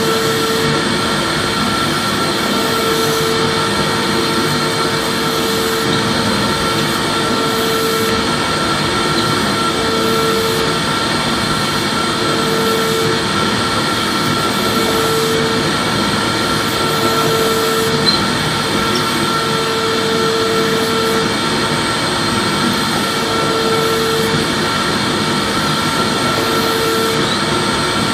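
Vacuum cleaner running steadily: a constant whooshing hiss with a steady motor whine, and a low hum that swells and fades about every two seconds.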